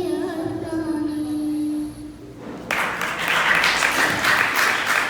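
A boy's voice holds the last sung note of a nasheed, which fades out about two seconds in. Then an audience breaks into applause about half a second later.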